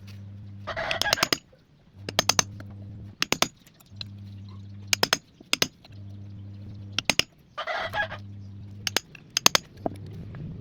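Clusters of sharp taps or clicks over a low hum that keeps switching on and off, with two short chicken calls, about a second in and again near eight seconds.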